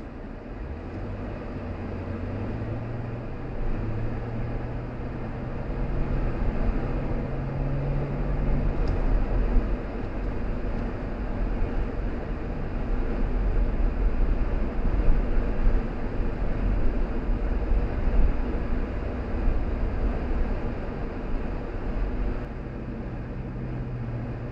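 A car driving along a road, its engine note climbing over the first several seconds as it picks up speed. A deep road rumble then grows louder through the middle and eases off near the end.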